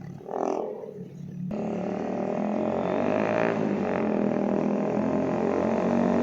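Bajaj Avenger 220's single-cylinder engine running through a modified exhaust, the revs and level slowly climbing. A cut about a second and a half in marks the switch from a brief sound that rises and falls to the engine.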